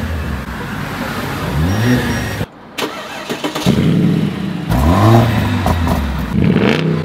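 Mercedes-AMG A45 S's turbocharged 2.0-litre four-cylinder engine revved at standstill in about five short blips, each rising in pitch and falling back.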